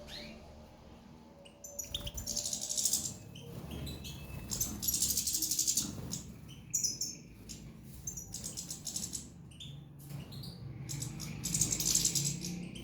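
Small songbirds singing: bursts of fast, high-pitched trills with short chirps in between. The longest bursts come about two seconds in, around five seconds in and near the end.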